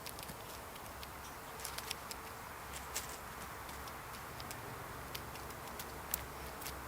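Scattered sharp little clicks and taps at irregular intervals over a steady outdoor hiss.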